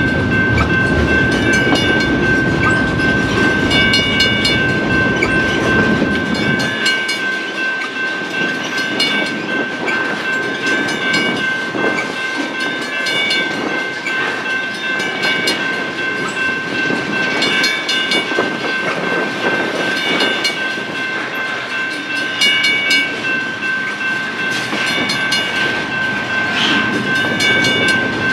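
Double-stack intermodal well cars rolling past, wheels clicking over rail joints, with a steady high ringing tone throughout from the active grade-crossing signal. A heavy low rumble drops away about seven seconds in.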